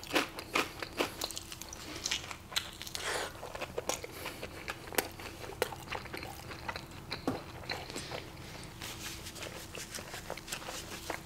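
Close-miked biting and chewing of a mouthful of barbacoa burrito: a wet, irregular run of mouth clicks and lip smacks.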